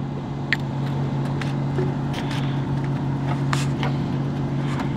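Pickup truck engine idling steadily after a cold start, with a few faint clicks.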